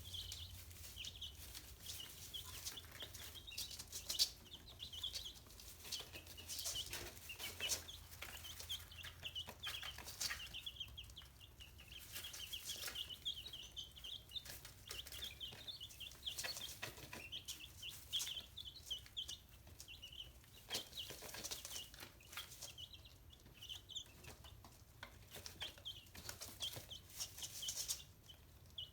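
Chicks cheeping continuously in short high peeps, with scattered clicks and scratching as they peck and scratch at live mealworms.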